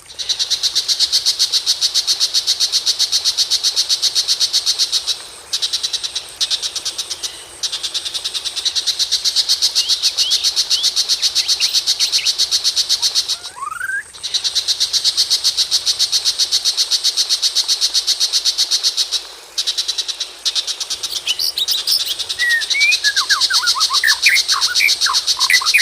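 Recorded birdsong on a bird-lure track: a long, rapid, high-pitched trill repeating in runs broken by brief pauses. A single rising whistle comes about halfway through, and a flurry of quick falling whistled notes from white-rumped shama song comes near the end.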